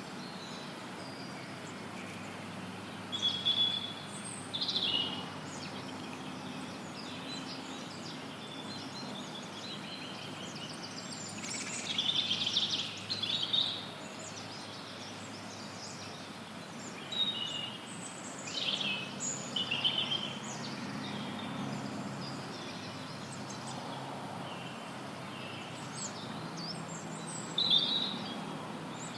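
Forest birds chirping and trilling in scattered short phrases over a steady hiss of added white noise, with clusters of calls about three seconds in, in the middle and near the end.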